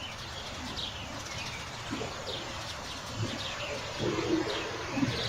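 Birds chirping, short falling chirps repeating through, with a few low cooing calls in the second half.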